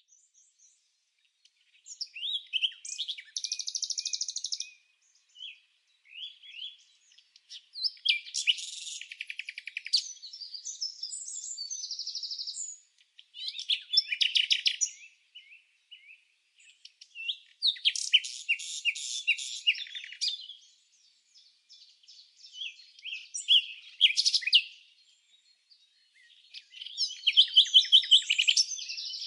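Songbird singing in bouts of high chirps and fast trills, each bout lasting one to a few seconds, with short silent gaps between.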